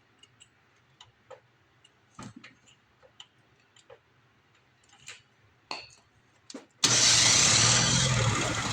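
Faint clicks and taps, then about seven seconds in the two-stroke engine of an old MTD single-stage snowblower is cranked over on starting spray and runs loudly for a moment, fading without catching.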